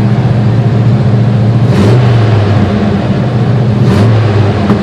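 1968 GMC half-ton's rebuilt 327 small-block V8 running just after a cold start, held on the throttle because it won't idle well cold. It runs steadily and loudly, swelling slightly about two seconds in and again near four seconds.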